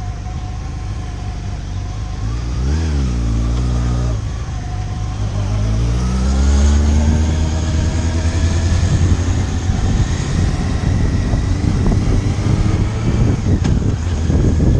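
Motorcycle engine: a quick rev up and back down about three seconds in, then pulling away with the pitch climbing steadily for a few seconds and holding there at speed.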